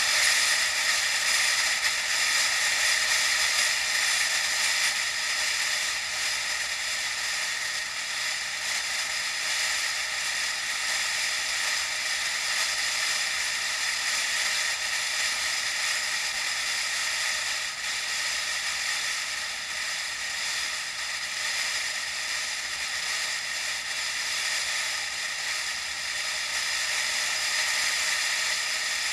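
Steady hiss of riding noise, wind and tyres on the road, picked up by an action camera on a moving bike, with no clear changes.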